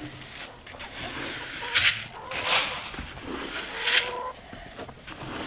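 Chickens calling around a barnyard, with a few drawn-out notes, and several short scuffing noises a second or two apart.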